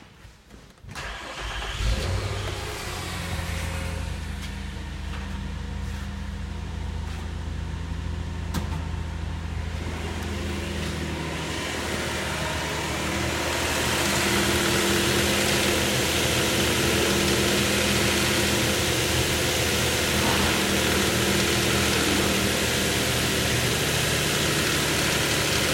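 Nissan 4.0-litre VQ40DE V6 engine being run-tested: it starts about two seconds in and settles into a steady idle, growing louder from about ten to fourteen seconds in, then running evenly.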